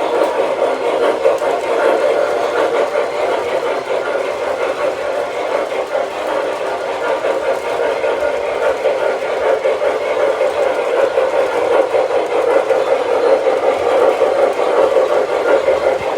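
O-scale MTH Proto-2 model steam locomotive running on the layout track, a steady rolling rumble of wheels and motor that carries on without a break.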